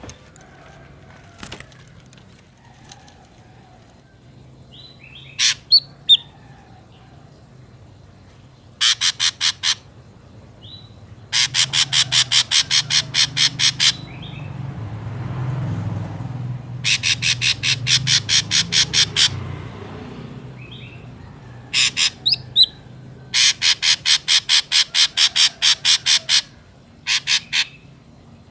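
Ashy drongo calling: several runs of rapid, evenly repeated harsh notes, about four or five a second, each run lasting one to three seconds, with a few short single calls about five seconds in. A low rumble swells and fades in the middle.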